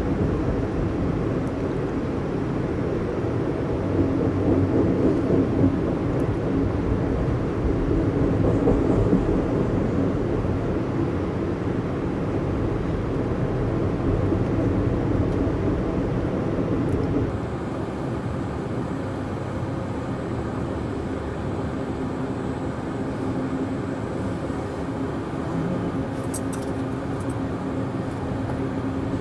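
Amtrak Empire Builder passenger train rolling along the track, heard from aboard: a steady rumble of wheels on rails and car noise. About 17 seconds in, the sound drops a little and the deepest rumble thins out.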